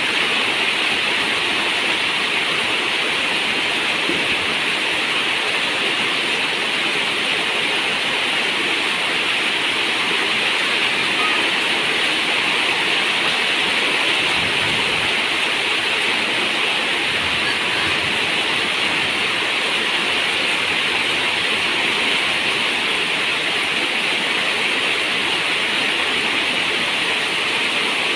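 Rain falling steadily on a zinc roof, an even, unbroken hiss of water.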